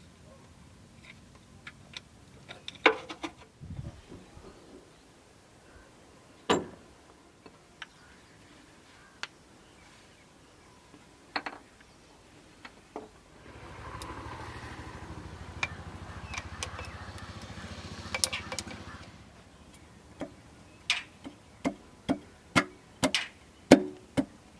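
Metal parts and hand tools clinking and knocking during engine assembly work, with a quick run of sharp clicks near the end. About halfway through, a steady buzzing machine sound with a low hum runs for about five seconds and then stops.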